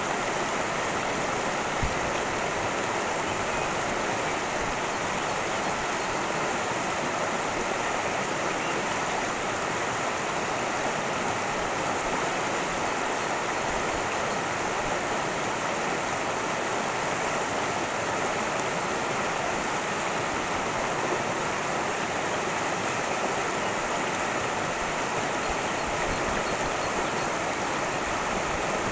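A cascading creek rushing steadily over rocks, an even, unbroken water noise.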